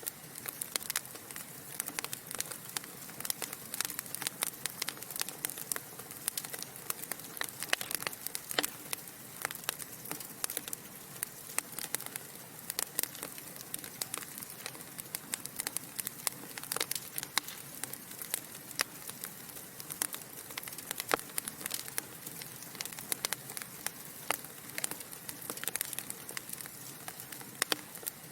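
Wood fire of burning logs crackling: dense, irregular pops and snaps over a soft steady hiss.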